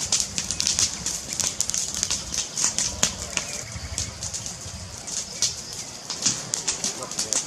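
Fireplace fire crackling: a dense, irregular run of small pops and snaps, with a low rumble swelling briefly in the middle.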